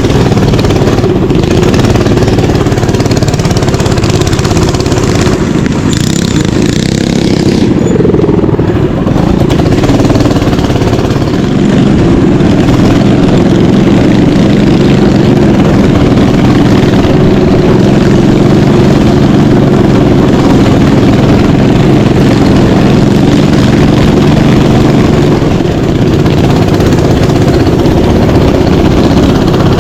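Mini bike engine running loud and close, uneven at first, then holding a steady speed from about a third of the way in until near the end.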